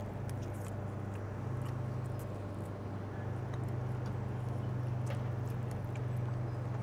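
Fried chicken wings being bitten into and chewed, faint scattered crunches and clicks over a steady low hum.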